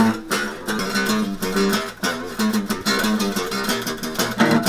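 Guitar playing a chord pattern in quick, even strokes, as a new song part is worked out.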